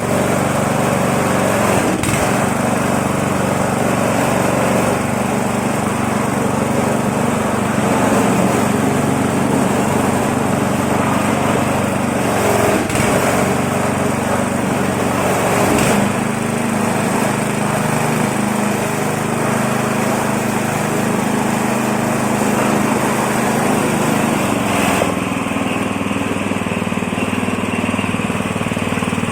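Coconut husk-peeling machine running steadily, its motor driving the dehusking rollers, with a few brief knocks along the way.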